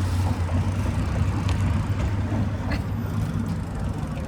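Steady rumble of wind and road noise on the microphone of a rider cycling along a road.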